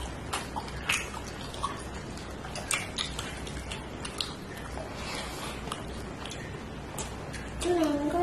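Close-up eating sounds of mouth-smacking and chewing, heard as scattered small wet clicks. A high voice starts briefly near the end.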